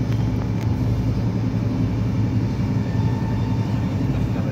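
Steady low rumble and hum of a passenger train running, heard from inside the carriage.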